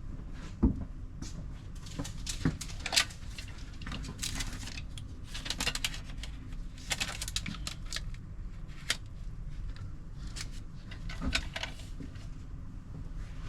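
Handling noises: scattered small clicks and taps, with a few short rustling or scraping bursts, over a low steady hum.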